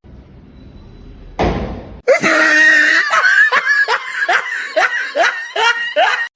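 Someone laughing hard: a quick run of short cries, each falling in pitch, two to three a second, after a brief rush of noise.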